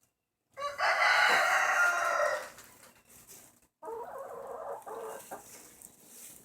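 Rooster crowing: one loud crow of about two seconds, followed near the middle by a quieter, longer call from the chickens.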